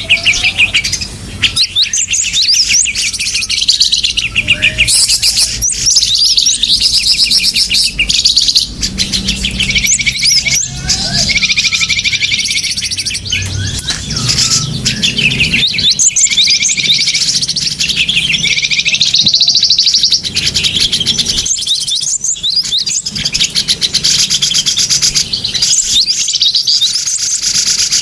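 Small birds chirping and twittering in a dense, unbroken stream of rapid high-pitched calls and trills, a bird-luring (pikat) call recording meant to draw small birds in.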